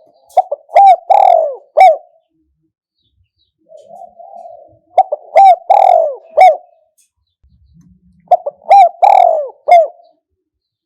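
Spotted dove cooing: three song phrases about three seconds apart. Each phrase is a soft rolling lead-in followed by several loud, clear coos.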